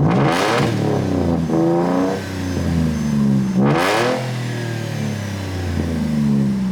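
A nearby vehicle engine revved hard again and again, each rev climbing fast and then winding back down to a low rumbling idle, about every three and a half seconds.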